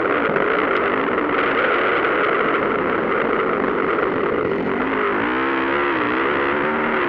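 Motocross bike engines revving hard, their pitch rising and falling with the throttle, clearest in the last couple of seconds.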